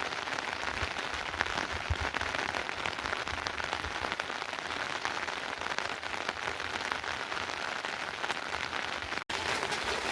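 Steady rain falling, with a dense patter of individual drops striking surfaces; the sound briefly cuts out near the end.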